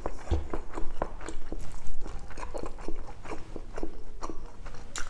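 A person chewing a mouthful of pork belly and rice, with wet smacking and clicking of the lips and mouth at an irregular pace.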